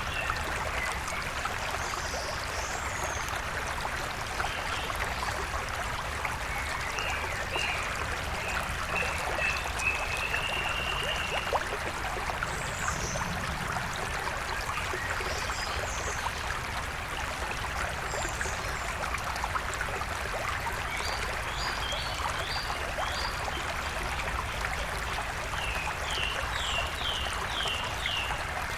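Steady rush of a flowing stream, with wild birds singing over it: a run of chirps about a third of the way in, and two quick series of five or so short falling notes near the end.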